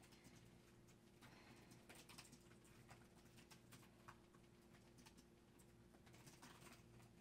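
Faint, irregular clicking of fingers typing on a laptop keyboard, over a low steady hum.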